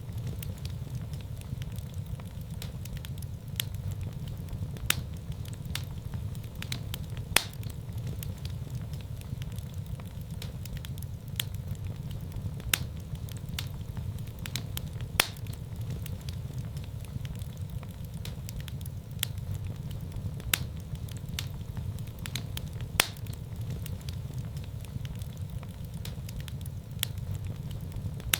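Wood fire burning in a fireplace: a steady low rumble of flames with scattered sharp pops and crackles from the burning logs, a few every couple of seconds.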